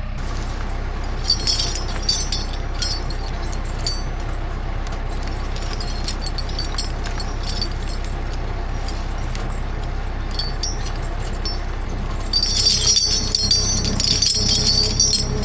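A machine's engine running steadily at low revs, with light metallic clinking and jingling twice, the second and louder run near the end.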